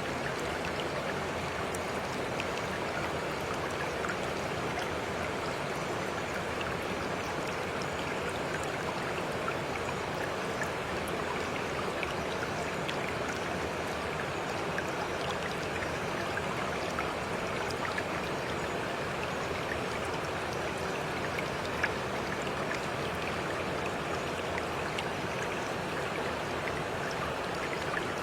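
Steady flowing water, an even rush with scattered faint drips and splashes.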